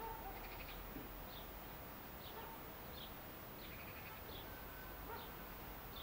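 A bird chirping faintly and repeatedly in the background: short high chirps about every three-quarters of a second, over a steady low hiss.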